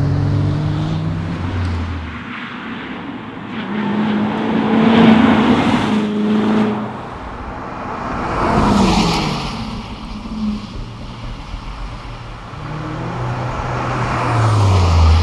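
Ford Falcon XR8's supercharged V8 engine driven hard, its note rising and falling several times as it accelerates and lifts off. It is loudest about five and nine seconds in and again near the end.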